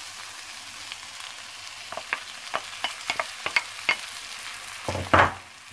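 Onions and peppers sizzling steadily in hot olive oil in a tajine as grated tomatoes go in. A quick run of sharp clicks and taps comes about two seconds in, and a louder knock follows about five seconds in.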